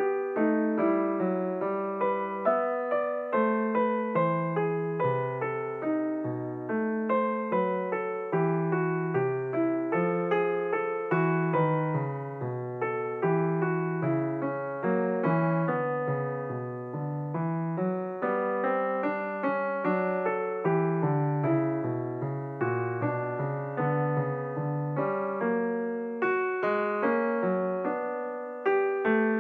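Background piano music: a steady run of struck notes, each fading after it is played.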